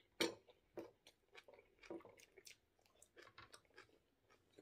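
A person chewing food close to the microphone: a run of short, irregular mouth clicks and smacks, the sharpest just after the start.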